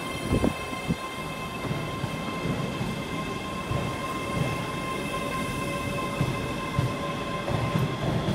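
ScotRail class 385 electric multiple unit moving along the platform. Its wheels give irregular knocks over a steady rumble, with several steady whining tones above.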